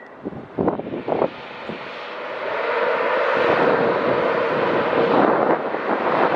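A train running through the station, its noise building over about a second to a loud steady rumble with a steady hum in it. A few short thumps of wind on the microphone come before it.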